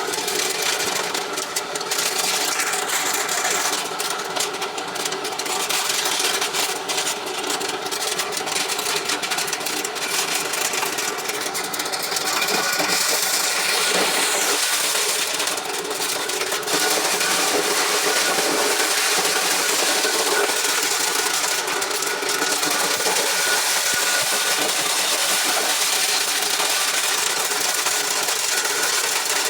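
Motor-driven corn-shelling machine running steadily, stripping kernels from the cobs.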